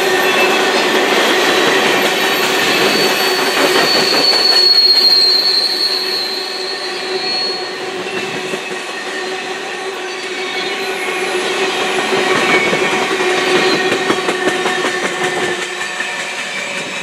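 Freight train of covered hopper cars rolling past, the steel wheels clattering on the rails and squealing. A high-pitched wheel squeal stands out from about four to seven seconds in, and the sound eases near the end as the last car goes by.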